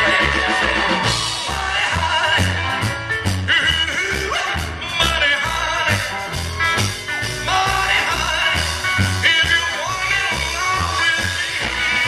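Live rock and roll band playing, with electric guitar, bass and drums over a steady driving beat.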